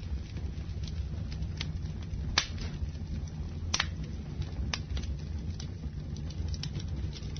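Campfire burning: a steady low rumble of flames with scattered sharp crackles and pops from the burning wood. The loudest pops come about two and a half and four seconds in.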